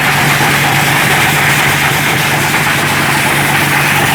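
A motor running steadily at a constant speed: an unchanging low hum under a dense mechanical hiss.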